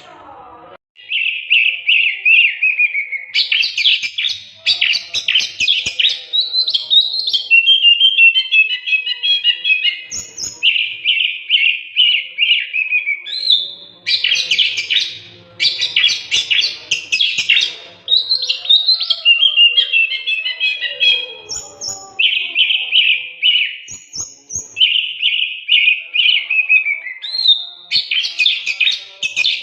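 Oriental magpie-robin singing a long, varied song: clear whistles, fast runs of repeated notes and higher squeaky phrases, starting about a second in and going on in bursts with short pauses.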